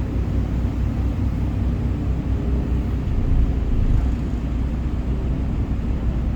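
Steady low rumble of a moving passenger ferry's engines, with a fainter hiss above it.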